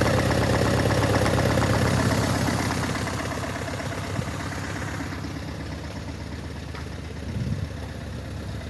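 Renault K9K 1.5 dCi four-cylinder turbodiesel idling on test. It gets quieter about two to three seconds in and then runs on steadily, with a brief click about four seconds in.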